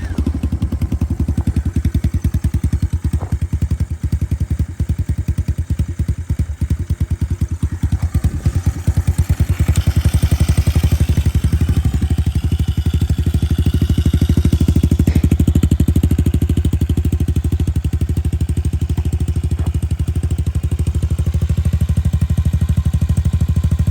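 Small single-cylinder 125cc pit bike engine running at a steady idle with a fast, even putter, just after electric start. It grows a little louder from about ten seconds in.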